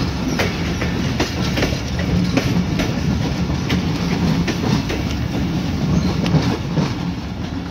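Train carriages rolling past with a low, steady rumble, their wheels clacking over the rail joints about twice a second.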